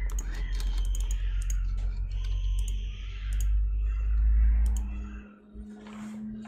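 Scattered clicks of computer keys being pressed, a dozen or so irregular presses, over a strong low hum that cuts off suddenly about five seconds in.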